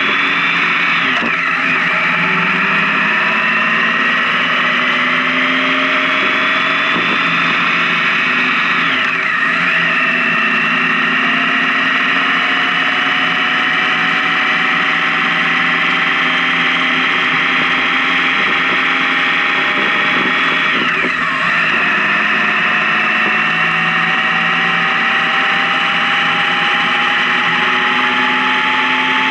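Honda Gold Wing touring motorcycle's engine accelerating through the gears. The pitch climbs slowly and drops sharply at each upshift: about a second in, about nine seconds in and about twenty-one seconds in.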